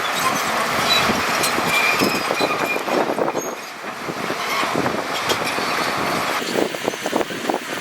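Heavy earthmoving machinery at work: engines running under a steady noise, with a constant irregular clatter of rattles and knocks.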